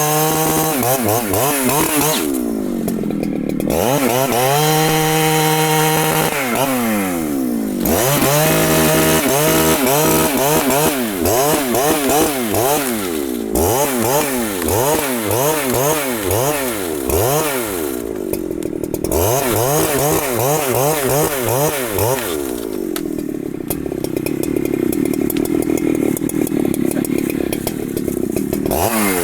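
Large Husqvarna two-stroke chainsaw cutting wood at full throttle, its engine pitch wavering up and down as the chain takes the load, and dropping several times when the throttle is eased off between cuts.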